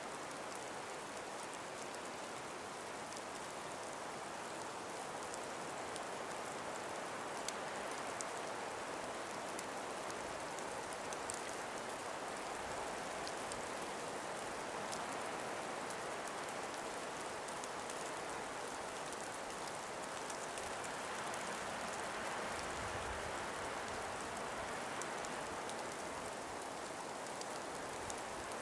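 Steady, even hiss of a light breeze through an ice- and frost-laden forest, with faint scattered ticks.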